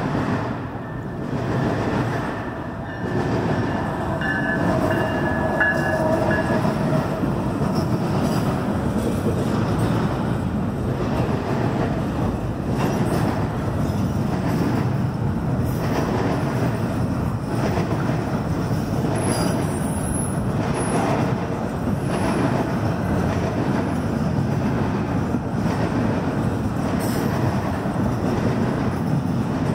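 CN double-stack intermodal freight train passing at speed over a grade crossing: a steady, loud rumble and rattle of wheels and well cars. A brief high whine sounds about five seconds in.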